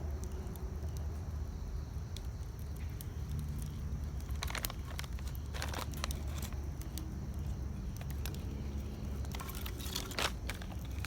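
Wood campfire crackling, with scattered sharp pops that bunch into short runs of snaps a few times, over a steady low rumble.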